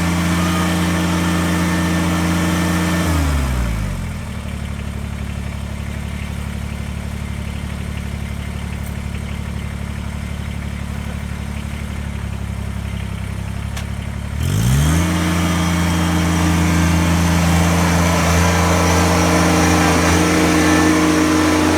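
Kubota BX23S sub-compact tractor's three-cylinder diesel engine running at high revs, throttled down to idle about three seconds in, idling for about ten seconds, then revved quickly back up to high revs.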